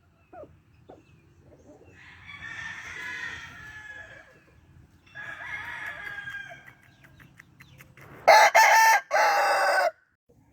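Gamefowl roosters crowing: two fainter, more distant crows, then a loud crow from a nearby rooster near the end.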